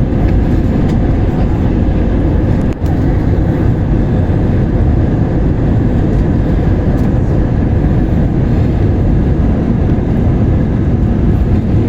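Steady noise of an airliner in flight: engines and rushing air, with no breaks apart from a brief dip about three seconds in.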